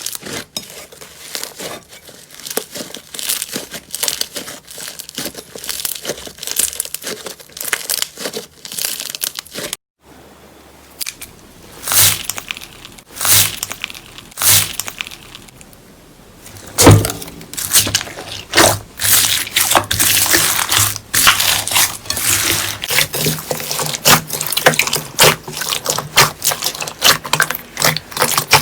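Slime being squeezed and stretched, a rapid run of sticky clicks, crackles and small pops. A short break comes about ten seconds in, followed by a few louder separate pops, then a dense stretch of crackling.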